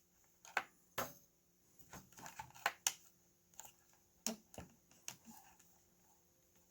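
Scattered small clicks and taps of hands handling the opened talking toy, about a dozen irregular knocks of varying strength, during a pause between the toy's spoken prompts while it is probed for glitches.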